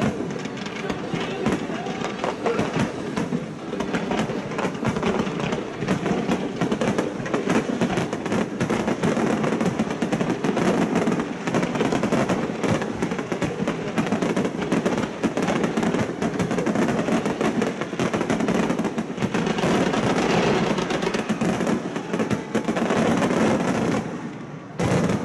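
Finale of a large fireworks display: many aerial shells bursting and crackling in quick, overlapping succession without a break. There is a brief lull shortly before the end.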